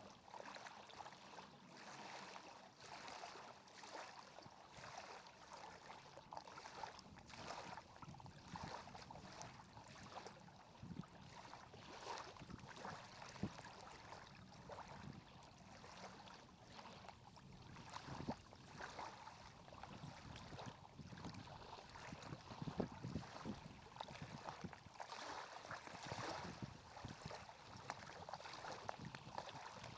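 Faint lapping water with scattered small splashes and ticks.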